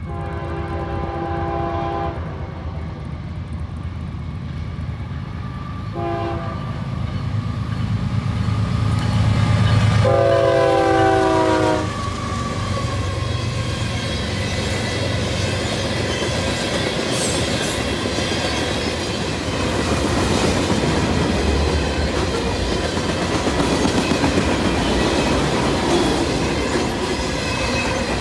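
A diesel freight locomotive's horn sounds for a grade crossing: a long blast, a short one about six seconds in, and a long one about ten seconds in. Under the last blast the locomotive passes close by with a heavy engine rumble, the loudest point. After that the freight cars roll past with a steady rumble and clatter of wheels on rail.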